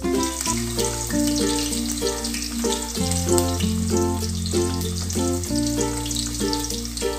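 Garlic cloves sizzling and crackling in hot oil in a steel pot, under louder background music whose bass note changes every couple of seconds.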